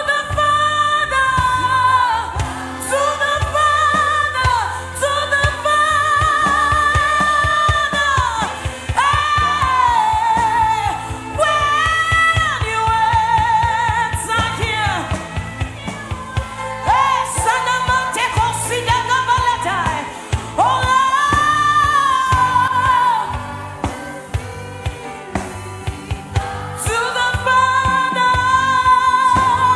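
Gospel worship singing: a voice holding long, gliding notes with vibrato over a steady, sustained low instrumental backing.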